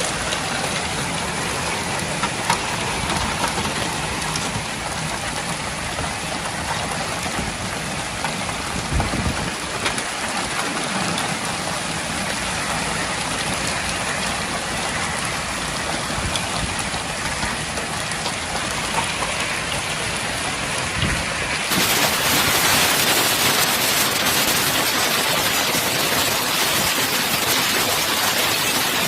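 A heavy hailstorm: hail and rain pelting down in a steady, dense patter. About 22 s in it cuts to another recording of the storm with a brighter, hissier downpour.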